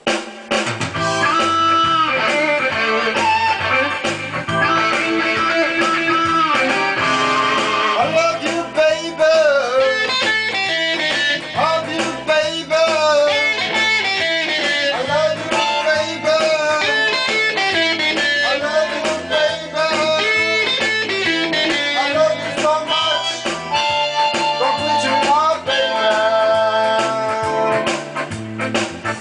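Guitar music: a lead line of bent, wavering notes over a low repeating accompaniment.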